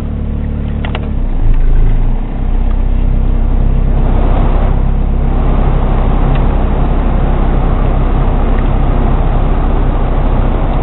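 Peugeot 405 GR's 1.9 carburetted petrol engine idling steadily, heard from inside the cabin. About four seconds in, a steady rush of air from the ventilation blower rises and keeps on as the climate control is switched to automatic.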